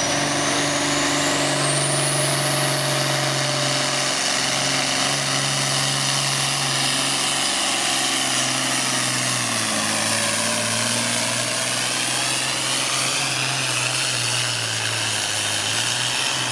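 Diesel pulling vehicle's engine running hard at high revs under load during a pull, with a high turbo whine that climbs over the first couple of seconds. The engine note holds steady and drops slightly a little over halfway through.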